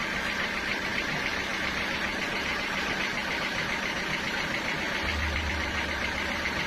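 Sawmill machinery running steadily, with a low rumble coming up about five seconds in.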